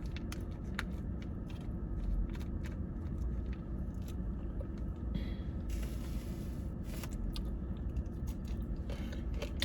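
Close-miked chewing and biting of a crunchy kale salad dressed with avocado ranch, with many small wet mouth clicks over a steady low hum, and a brief rustling noise about six seconds in.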